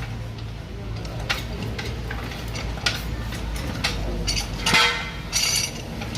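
Scattered metallic clinks and knocks of tools and metal parts being handled during car repair, over a steady low rumble, with a louder cluster of clinks near the end.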